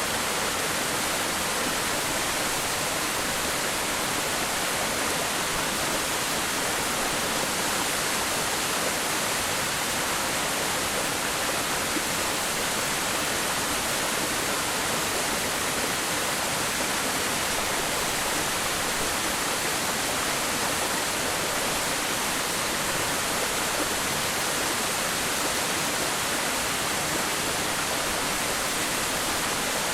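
Waterfall: a steady, unbroken rush of falling water, heavy in the hiss and light in the low rumble.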